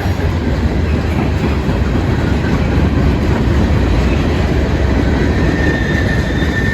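Norfolk Southern freight train rolling past with a loud, steady rumble of wheels and cars. A thin, high, steady squeal joins in near the end.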